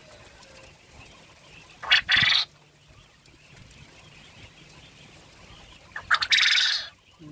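Male quail calling twice, about two seconds in and again about six seconds in. Each call is a quick short note followed by a longer, loud, high note.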